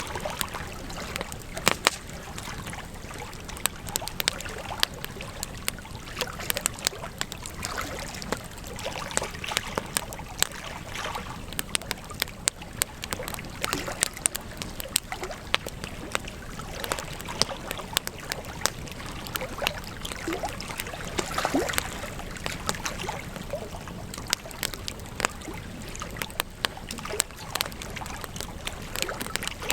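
Wood campfire crackling, with frequent sharp, irregular pops over a steady hiss and low rumble of burning.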